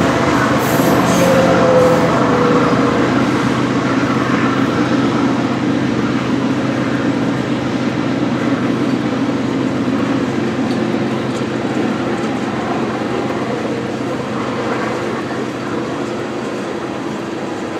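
Freight train of tank cars rolling steadily past: a continuous rumble and rattle of steel wheels on rail that slowly fades, with a short faint squeal about a second in.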